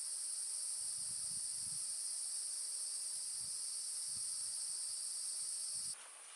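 Forest insects droning in a steady, high-pitched chorus that cuts off abruptly near the end, leaving quieter forest ambience.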